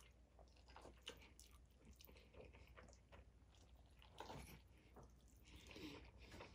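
Faint chewing of orange chicken and soft, mushy rice, with a few light clicks and scrapes of a metal spoon in a stainless steel bowl.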